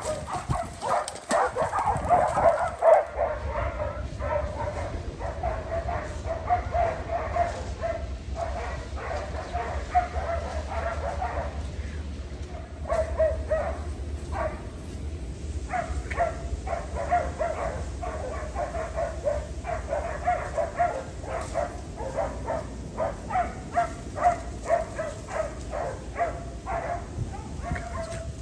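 West Siberian Laika hunting dogs barking in a rapid, continuous run with a short lull about twelve seconds in: the bay of dogs holding a treed bear.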